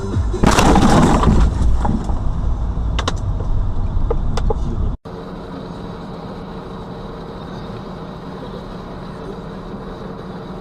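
A loud, noisy burst lasting about a second, about half a second in, followed by a few sharp clicks. After a sudden cut, steady car engine and road hum as heard inside a moving car.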